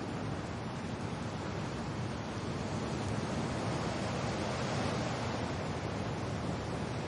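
Steady rain with wind: a dense, even hiss that swells a little in the middle.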